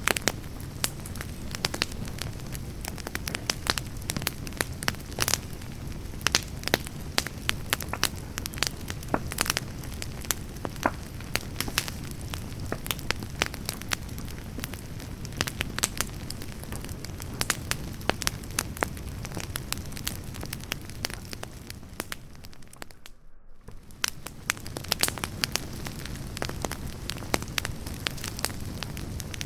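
Firewood campfire burning, with dense, irregular crackles and sharp pops over a steady low rumble of the flames. The sound dips briefly quieter about three quarters of the way through.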